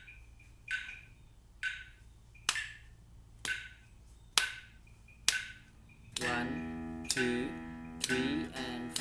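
A metronome clicking at 65 bpm, joined on each beat about 2.5 s in by sharp hand slaps on the lap. About 6 s in, open guitar strings start being plucked in time with the click.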